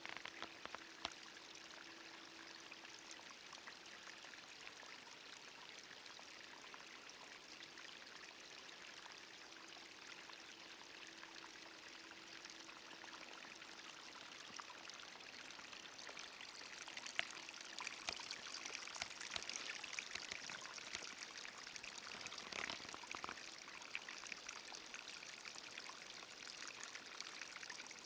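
Steady rushing and trickling of running water, as of a small stream, growing a little louder about halfway through.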